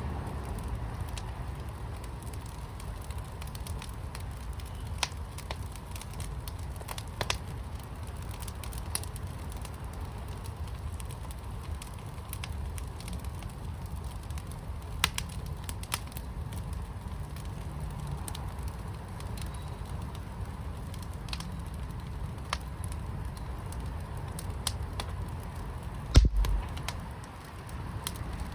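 Wood fire in a firepit crackling, with scattered sharp pops over a steady low rumble. Near the end there is one louder low thump.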